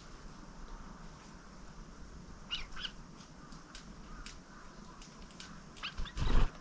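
Small wild songbirds giving short, high chip calls, a few at a time. Near the end comes a loud, brief rustle or thump, much louder than the calls.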